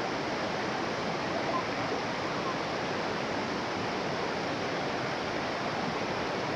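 Steady rush of water from a waterfall, an even, unbroken hiss of falling and splashing water.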